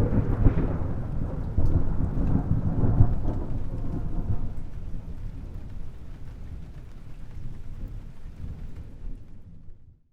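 A thunderclap that breaks suddenly, cracks several times in the first three seconds, then rolls into a long low rumble that slowly fades. It cuts off to silence just before the end.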